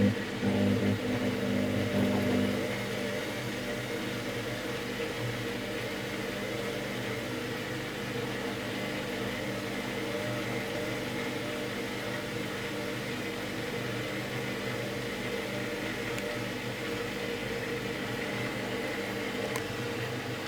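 Candy top-loading washing machine running with a steady mechanical hum and whir; a louder low hum drops away about two and a half seconds in. The machine is caught in a loop, showing error E09.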